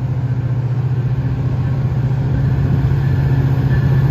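MARC MP36PH-3C diesel locomotive engine throttling up as the train starts to pull away, a deep pulsing rumble that grows steadily louder.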